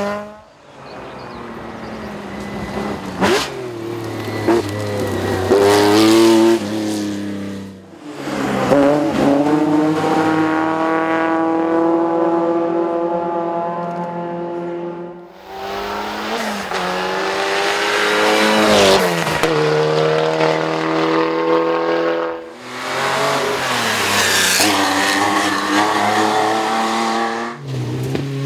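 Historic rally cars at full throttle, engines revving high and dropping at each gear change, several cars one after another with abrupt changes between them.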